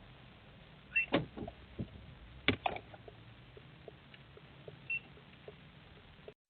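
Clicks and knocks inside a car cabin over a faint steady hum, with two short high beeps. The strongest knocks come about a second in and about two and a half seconds in.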